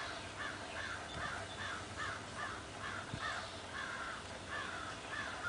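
A bird calling over and over in short, harsh calls, about three a second, without a break.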